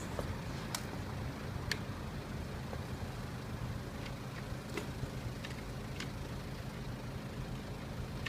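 Chinese Monkey-replica 125cc single-cylinder engine idling steadily through a stainless Minimoto power-up aftermarket muffler, a low even exhaust note, with a few sharp clicks over it.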